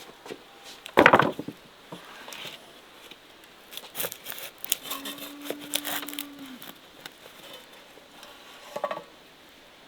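Scattered knocks and clicks of things being handled, with one loud knock about a second in and a run of sharp clicks between four and six seconds. A short steady hum sounds for about a second and a half around five seconds in.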